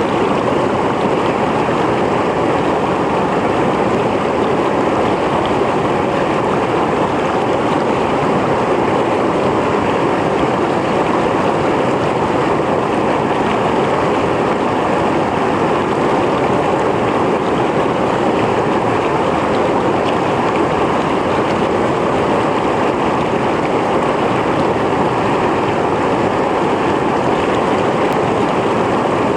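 Mountain stream flowing, a steady rushing and splashing of water over rocks.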